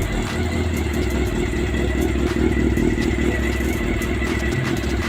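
Honda CB400 Super Four inline-four engine running steadily, with a light, occasional ticking. The mechanic suspects the tick comes from the chain in the middle of the engine.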